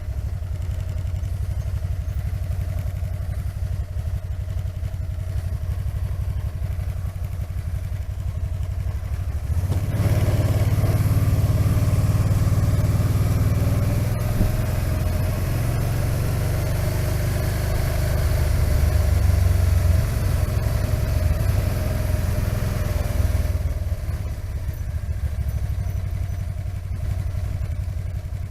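Riding at speed on a Can-Am Spyder RT, picked up by a helmet-mounted Sena 10C with the face shield up: wind rushing over the helmet above a steady low rumble of the engine and wind. The rush grows louder about ten seconds in and eases off again a few seconds before the end.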